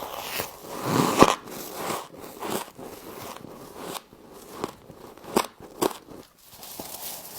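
Close-up biting and chewing of crunchy frost: irregular crackling crunches, loudest about a second in, with two sharp snaps a little past the middle.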